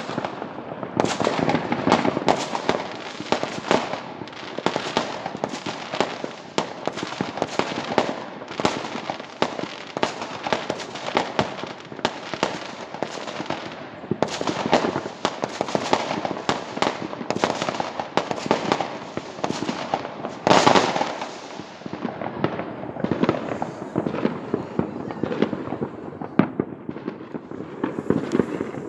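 Many fireworks going off at once across the neighbourhood: a continuous mass of overlapping bangs, pops and crackles, with one louder burst about two-thirds of the way through.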